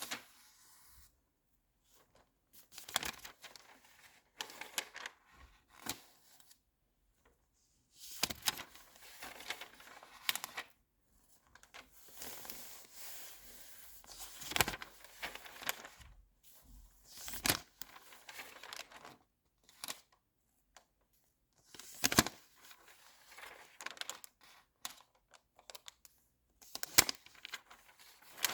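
Glossy magazine pages being handled and turned: repeated papery swishes and crackles, each turn a short burst, with quiet gaps between.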